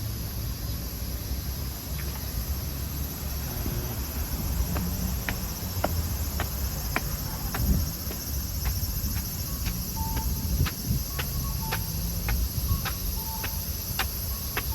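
Steady high-pitched chirring of insects, over a low outdoor rumble. Sharp ticks begin about a third of the way in and come more often in the second half.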